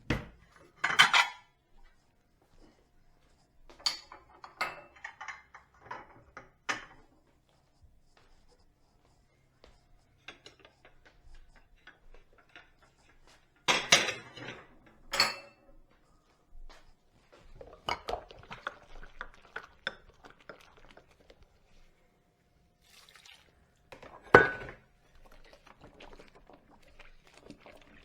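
Dishes and cutlery being washed by hand: scattered clinks and knocks of crockery and utensils, with a few sharper knocks standing out over quieter rattling between them.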